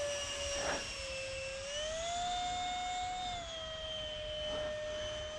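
Electric power unit of a 3D-printed radio-controlled Saab Viggen jet model in flight: a steady whine whose pitch rises a little about two seconds in and settles back down a little over a second later.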